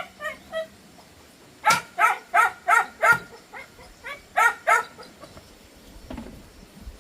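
Dog yelping: a run of short, high-pitched barks, about three a second, coming in two bunches and dying away after about five seconds.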